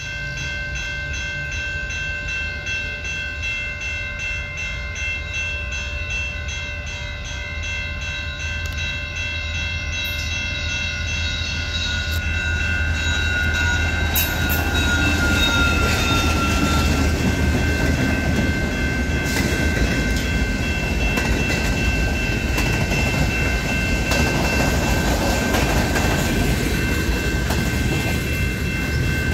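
CN local freight train passing through a road crossing: the diesel locomotive's low rumble, with several steady high warning tones sounding throughout. From about halfway, the railcars roll by with a rising rush of wheel and rail noise.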